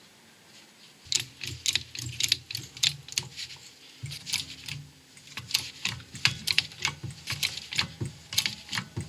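Pump handle of a 6-ton hydraulic shop press being worked, giving quick runs of sharp clicks and knocks, while a new wheel bearing is pressed into the hub carrier. The clicking starts about a second in and pauses briefly near four seconds.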